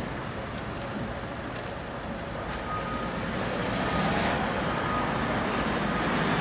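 Street traffic noise that grows louder about halfway through as vehicles pass, with a short high beep repeating about once a second from about two and a half seconds in.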